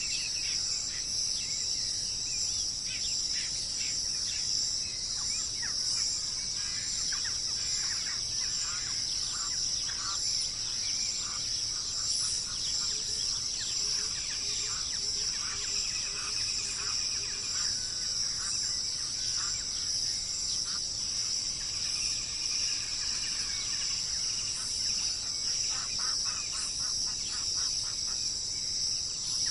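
Wild birds chirping and calling in quick short notes over a steady high drone of insects.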